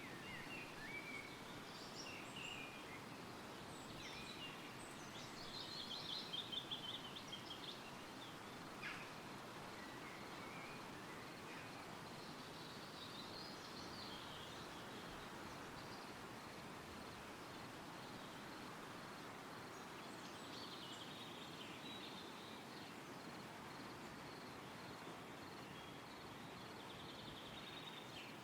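Wind rustling through woodland trees with birdsong from several birds: a loud, fast trill about six seconds in, and scattered calls and song phrases through the rest.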